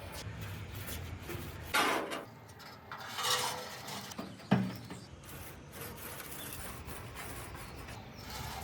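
Two short bursts of rubbing or scraping and a single sharp knock about halfway through, over a quiet workshop background.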